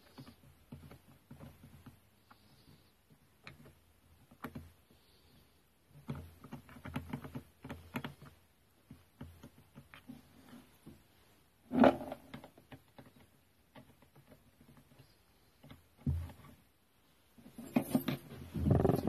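Intermittent clicks, rattles and knocks of hand tools and plastic strimmer parts being handled during reassembly, with a sharper knock about twelve seconds in and a louder clatter near the end.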